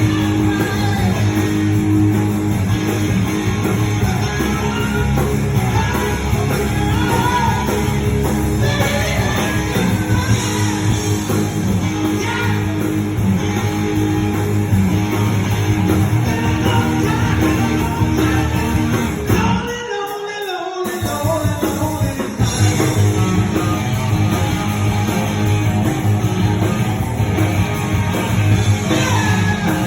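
A rock and roll band playing live, with a man singing over electric guitar and a full rhythm section. About two-thirds of the way through, the low end drops out for about a second in a short break before the band comes back in.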